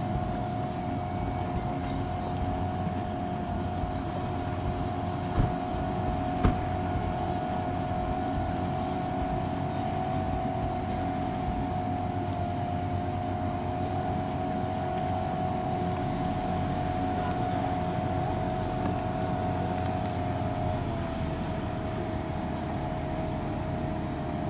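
1952 Mercury KF5 two-stroke outboard motor running steadily with the boat under way, its pitch easing down slightly near the end. Two brief knocks about five and six and a half seconds in.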